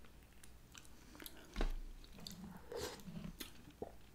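Faint close-up chewing of food, with scattered small mouth clicks and a soft low bump about one and a half seconds in.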